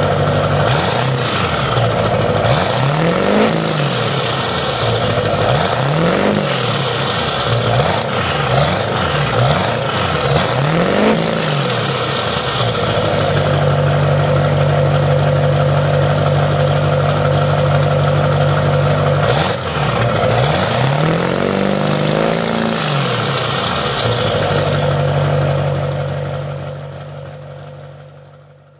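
2003 Duramax 6.6 L V8 turbo-diesel through a 5-inch exhaust, idling and blipped up several times in a row, then idling steadily before two more revs. The sound dies away over the last couple of seconds.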